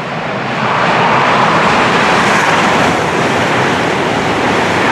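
Eurostar high-speed train passing through at speed: its noise swells over the first second and then stays loud and steady as the coaches go by.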